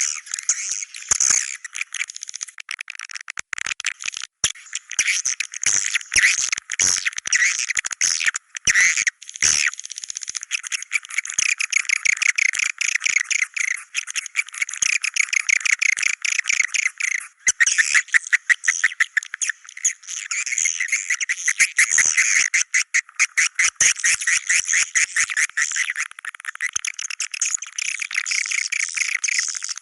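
Swiftlets calling: a dense, continuous twittering chatter of rapid high chirps and clicks, with no low end to the sound.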